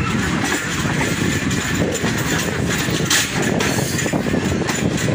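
Passenger train rolling along the track, heard from an open coach doorway: a steady rumble of wheels and running gear, with one sharper knock about three seconds in.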